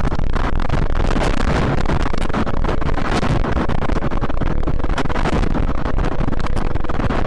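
Strong wind buffeting the microphone: a loud, steady roar with heavy rumble that starts abruptly and does not let up.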